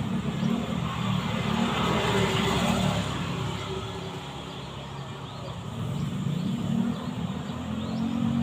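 Bees buzzing close by, a low hum that wavers and swells as they move about, with faint bird chirps in the background.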